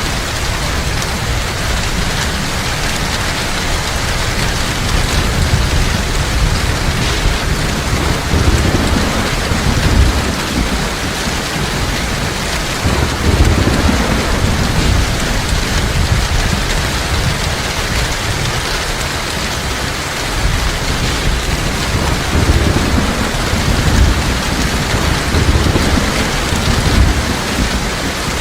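Heavy rain falling steadily, a dense continuous hiss, with low rumbles of thunder swelling and fading several times.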